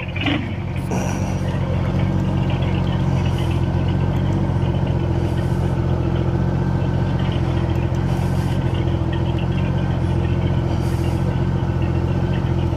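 Motorcycle engine running at a steady speed, its note unchanging throughout.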